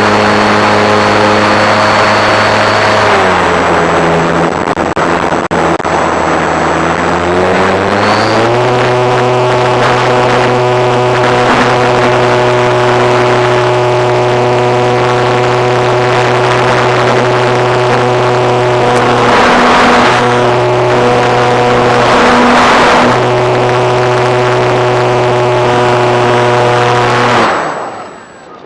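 Model airplane's piston engine and propeller running close by. It holds a steady drone, drops in pitch about three seconds in and climbs back up a few seconds later, dips briefly twice, then cuts off near the end.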